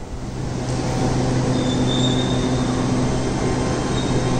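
A train moving through the station, with a steady low hum over a rumble that grows louder in the first second and then holds. A brief high wheel squeal comes about two seconds in, and a fainter one near the end.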